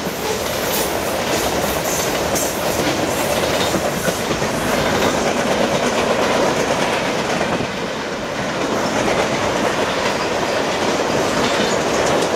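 Freight cars of a long train rolling past close by: a steady, loud rumble of steel wheels on rail, with regular clicking as the wheels pass over rail joints.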